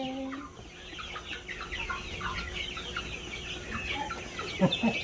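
Flock of chickens clucking and peeping: many short, overlapping calls.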